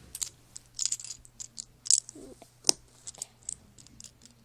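Plastic Lego pieces clicking and rattling in the hands as wheels are fitted onto a plate: a run of irregular small clicks, the sharpest one a little past halfway through.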